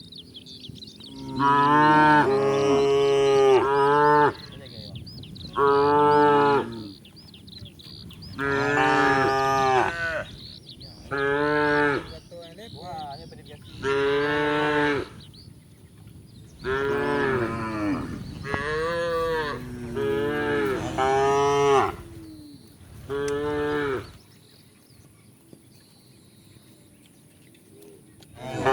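Cattle mooing: about ten loud moos, each one to two seconds long, come one after another. There is a pause of several seconds before one more moo near the end.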